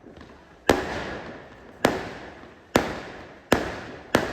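Multi-shot fireworks firing: five sharp bangs, roughly one a second, each trailing off before the next.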